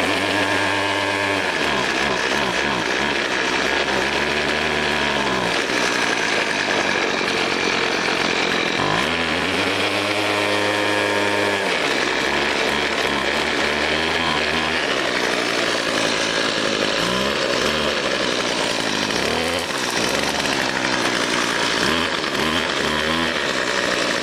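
Craftsman 25cc two-stroke string trimmer engine running just after a cold start, revved up and down several times. It runs on a really rich fuel mixture, and the owner thinks the gas is probably bad.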